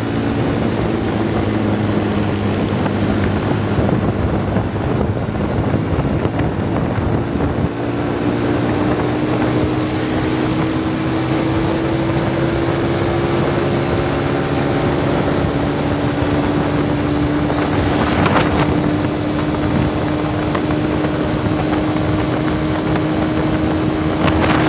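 Motorcycle engine running while riding, its pitch creeping slowly upward, with wind buffeting the microphone.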